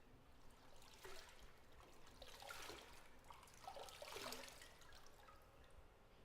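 Faint bathwater in a tub, trickling and sloshing in three short bouts: about a second in, about two and a half seconds in, and around four seconds in.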